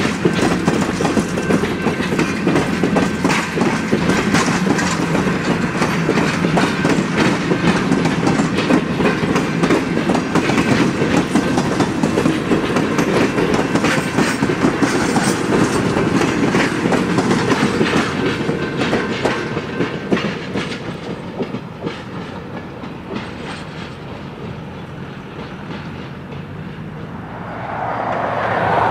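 Stainless-steel passenger coaches rolling past, their wheels clicking steadily over the rail joints. The clatter fades away after about eighteen seconds as the train moves off.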